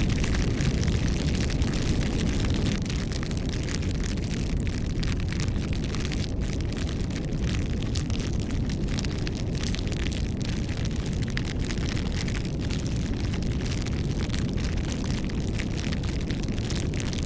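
Wood bonfire burning: a steady low rush of flames with many small crackles and pops scattered through it.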